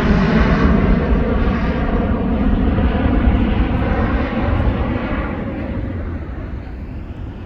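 Jet airliner's engines at takeoff power, a loud, deep rumbling noise that fades steadily over the last few seconds as the aircraft climbs away.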